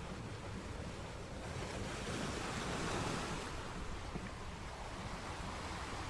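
Sea surf: a wave rolls in, building to a broad wash about two to three seconds in and then easing back into a steady rush of water.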